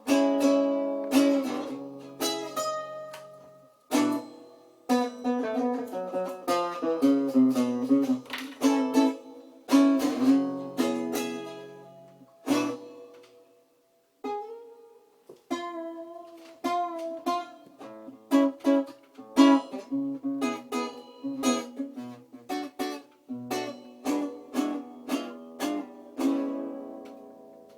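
Acoustic guitar playing an instrumental passage of picked notes and chords, with a short pause a little under halfway through and a final chord left to ring out and fade near the end.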